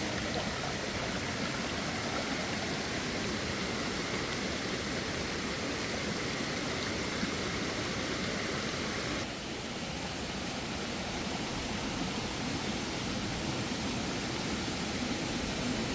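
Steady rush of a mountain stream's flowing water. About nine seconds in it becomes slightly duller and quieter.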